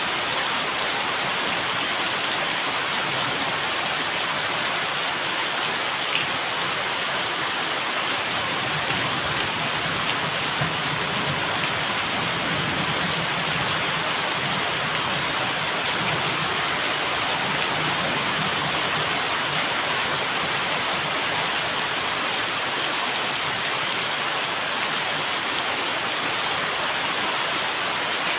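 Steady rain falling, with a low rumble of thunder that swells about eight seconds in and dies away by about twenty seconds.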